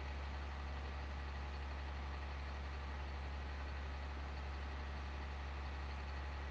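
Steady, unchanging low drone of a vehicle engine running, with a faint hiss over it.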